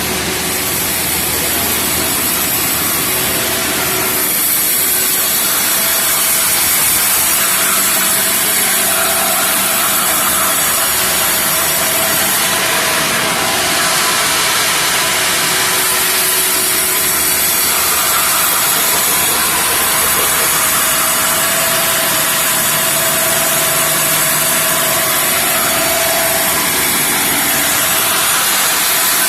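Sawmill machine for cutting boards running steadily: a loud, even mechanical noise throughout.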